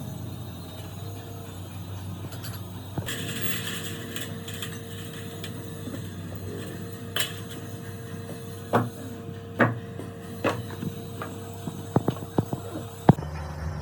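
Tools knocking and tapping on metal parts: single sharp knocks a second or so apart, then a quick cluster of taps near the end, over a steady low hum. A short hiss comes about three seconds in.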